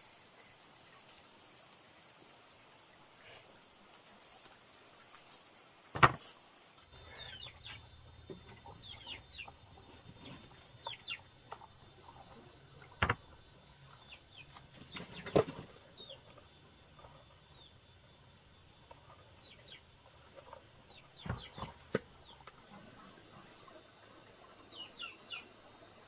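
A few sharp knocks spaced several seconds apart over a steady insect drone, with short, quick chirps from small birds scattered throughout.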